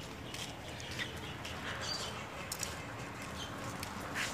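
Faint bird chirps now and then over steady, quiet outdoor background noise.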